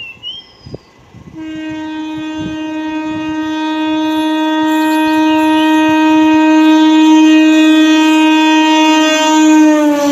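A MEMU train's horn sounding one long continuous blast, growing steadily louder as the train approaches, with its pitch dropping slightly near the end as it passes.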